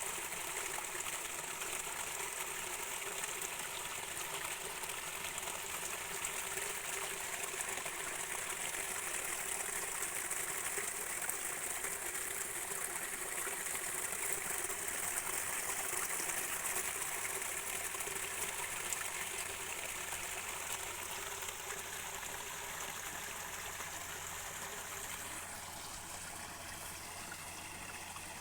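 Stream of water running over rocks, a steady rushing with a high hiss, getting somewhat quieter over the last few seconds.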